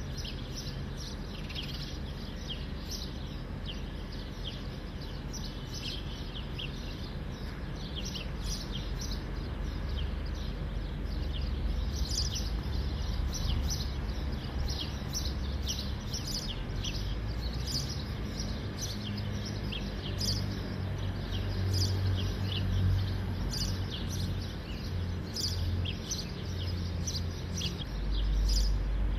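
Small birds chirping in many short, high notes over a steady low outdoor rumble that grows heavier about a third of the way in.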